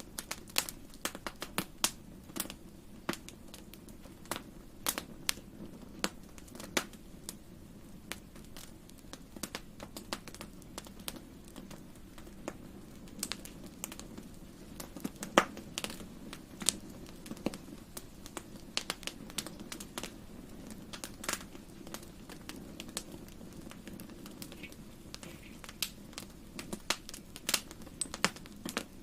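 Fire in a fireplace crackling: irregular sharp crackles and pops, several a second, over a low steady rumble.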